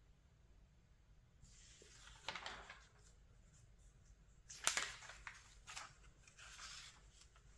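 Pages of a paper catalog being turned by hand: a soft rustle and slide, a sharp crisp flick of a page about halfway through, then a few lighter rustles as the page settles.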